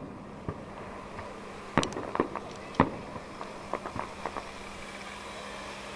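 Fireworks going off: a string of sharp bangs at uneven intervals, with a quick cluster about two seconds in, the loudest crack a little later, and smaller pops after that.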